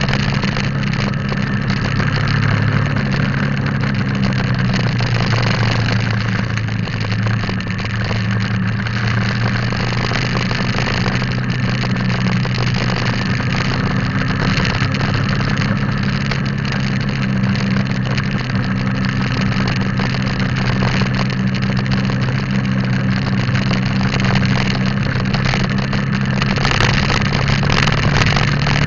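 Motorcycle engine running steadily while riding, over a constant rush of wind and road noise; the engine note shifts slightly a few times.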